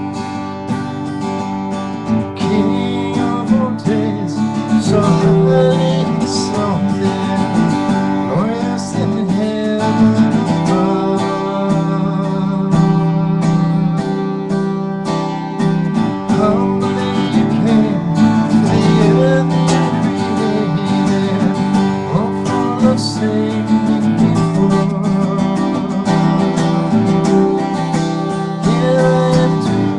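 Music: acoustic guitar strumming chords.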